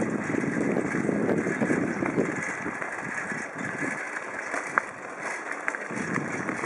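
Rumbling noise from riding a bicycle along the road, heaviest in the first couple of seconds and then easing, with a few light clicks from the bike.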